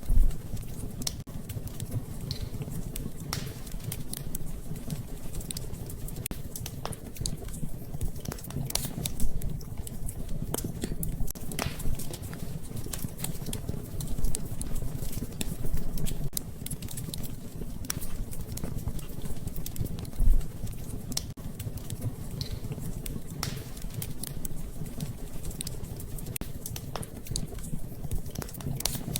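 Wood fire in a fireplace crackling and popping irregularly, with a few louder pops over a steady low rumble.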